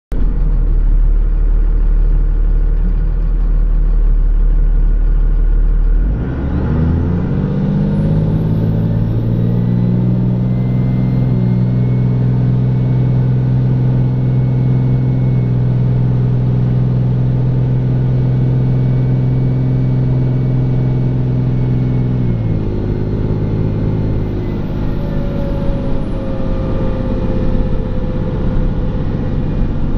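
Dodge Cummins inline-six turbo diesel pulling hard under a heavy load: the engine note climbs about six seconds in and then holds steady, with a high turbo whistle over it. About two-thirds of the way through the throttle eases off, the engine note drops and the whistle winds down.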